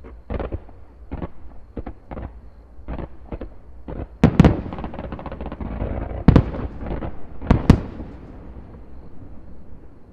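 Aerial fireworks shells bursting: a string of smaller bangs, then three loud bangs about a second and a half to two seconds apart starting about four seconds in. A dense crackling follows the first loud bang.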